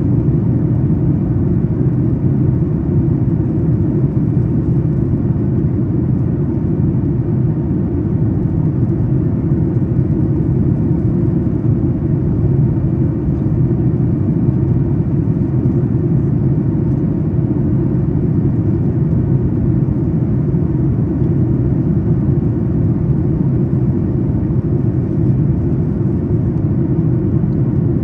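Steady in-flight cabin noise of a Boeing 737 MAX 8: a constant deep rumble of airflow and engines heard from an economy seat, with a faint steady hum.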